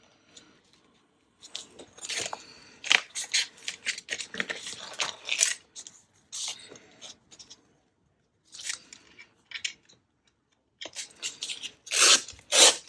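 Paper being handled and rustled, crinkling in irregular bursts, with a near-silent pause of a few seconds in the middle.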